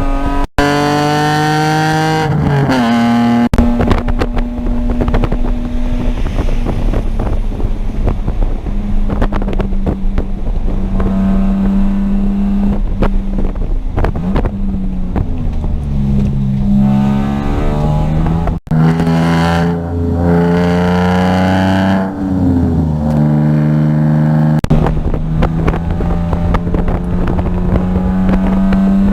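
Car engine heard onboard during a lap of a race circuit, its pitch climbing under acceleration and stepping down at gear changes and braking several times, with wind buffeting the microphone.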